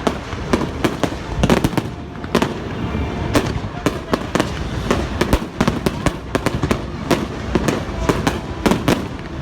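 Fireworks show bursting in rapid succession: many sharp bangs and crackles a second over a steady low rumble.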